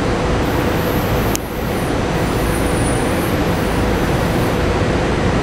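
SEPTA regional rail electric train approaching along an underground station platform: a steady rumble of the train in the tunnel, with a faint constant hum.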